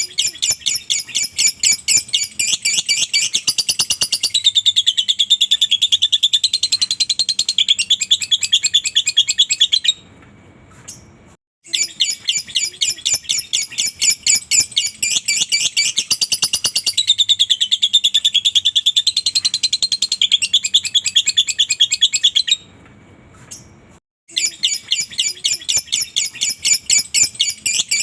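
Lovebird singing its long 'ngekek' song: a fast, high chattering trill of rapid chirps, in bouts of about ten seconds broken by two short pauses, about ten and twenty-three seconds in. Each bout repeats the same pattern, as in a looped bait recording.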